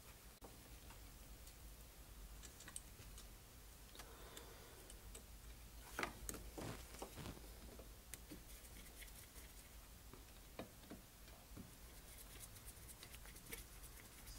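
Faint scattered clicks and light knocks of small carburetor parts and tools being handled, with a few louder taps about six to seven seconds in, over a low steady hum.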